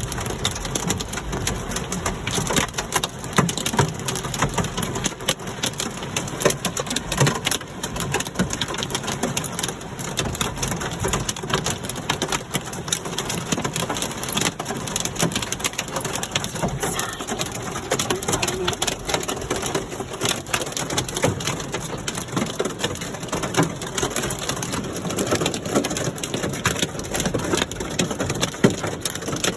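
Hailstones pelting down in a steady, dense clatter of countless small impacts, mixed with the hiss of rain.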